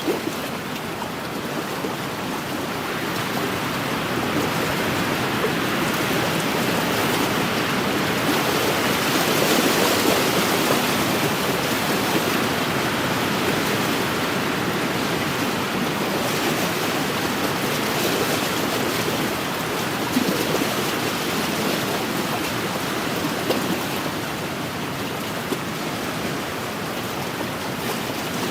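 Wind-driven waves on a lake, washing against the shore, with wind: a steady rush that swells a little about ten seconds in.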